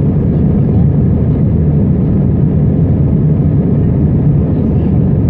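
Steady low cabin roar of an Airbus A320 airliner in flight: engine and airflow noise heard from a passenger seat inside the cabin.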